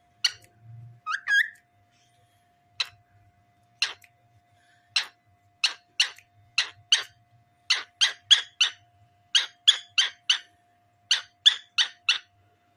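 Cockatiel calling loudly in short, sharp chirps, with a brief rising whistle about a second in. The chirps come singly at first, then in quicker runs of three or four from about five seconds in.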